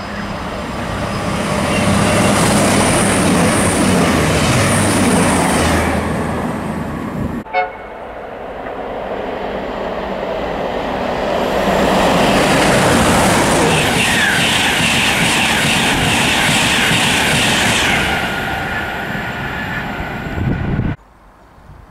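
Train passing at speed: a loud rush of wheel and air noise that breaks off suddenly about seven seconds in, then swells again into a second long pass with a high steady tone over it midway, and cuts off abruptly near the end.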